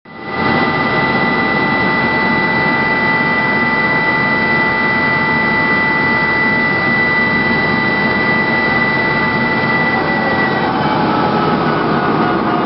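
Aérospatiale SA365N1 Dauphin helicopter's turbine engines running with a steady high whine over a loud rushing noise. Near the end one high tone stops and the other tones begin to drop in pitch as the engines are shut down.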